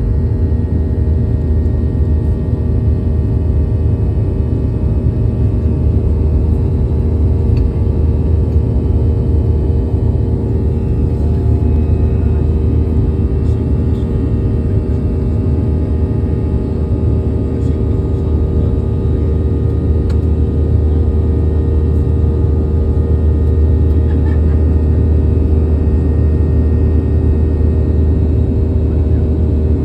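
Boeing 737-800's CFM56-7B jet engines running steadily: a deep, continuous rumble with a steady hum, holding at a constant level with no spool-up or pitch change.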